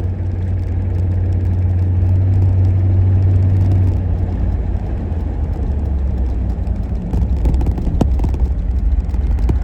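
The engine of a 1990 GMC 1500 pickup drones steadily while the truck is driven. About four seconds in, the engine note drops to a lower pitch. A single sharp click comes near the end.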